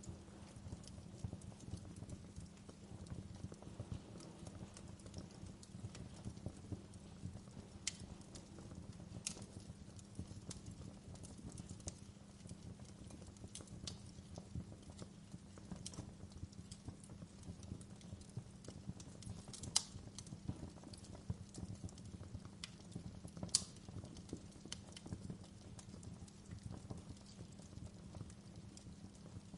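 Wood fire burning in a fireplace: a steady low rumble of the flames with continual crackling, and a few sharper pops, the loudest about 20 and 23 seconds in.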